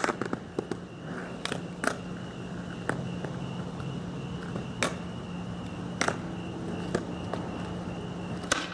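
A skateboard being ridden and handled: scattered sharp clicks and knocks, roughly one every second or so, over a faint steady hum.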